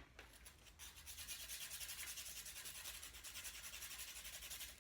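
Tool scraping and rubbing at a block of packed, damp sand from a dig kit, in quick repeated strokes that loosen the sand to free a buried stone; the scraping starts about a second in.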